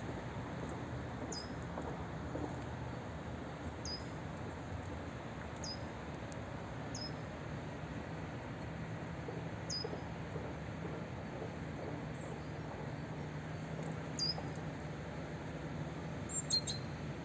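A small songbird calling: short, high, falling call notes repeated every second or two, with a quick cluster of notes near the end, over a steady low background hum.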